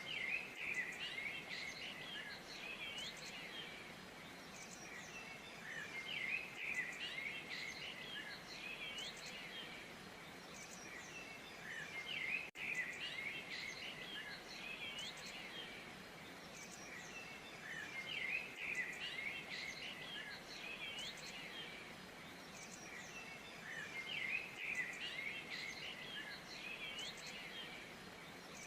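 Small birds chirping and twittering, many quick overlapping calls that swell in bursts every five to six seconds over a steady background hiss.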